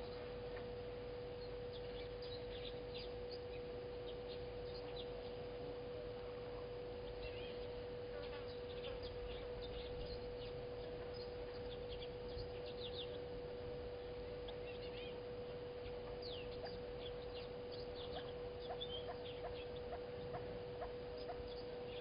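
Wild birds calling, many short high chirps and whistles scattered throughout, over a steady faint hum.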